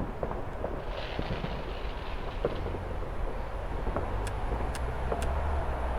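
Distant fireworks popping faintly and irregularly, a few scattered bangs over a steady low urban rumble.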